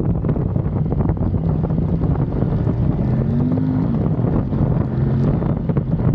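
Kove 800X Pro's parallel-twin engine running steadily under way, under heavy wind noise on the microphone. The engine note rises briefly a little past three seconds in, then drops back.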